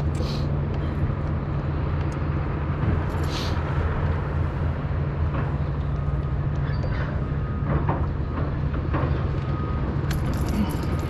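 An engine running with a steady low hum, with a few short, faint knocks and rustles on top.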